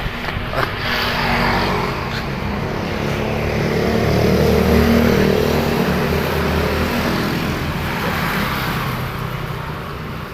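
Motor vehicle engine passing on a nearby road, growing louder to a peak about halfway through and then fading away.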